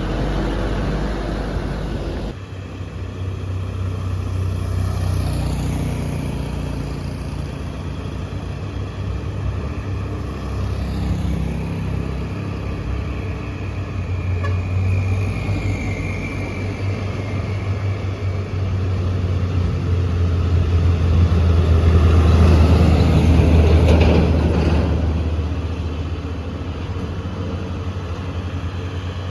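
Heavy truck diesel engine labouring up a steep climb, a deep steady drone that swells louder a little past the middle and then eases off.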